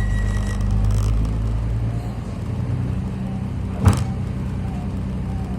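Steady low hum of an airport rail-link train's running machinery. A single sharp click or knock comes about four seconds in, and a thin high tone stops about half a second in.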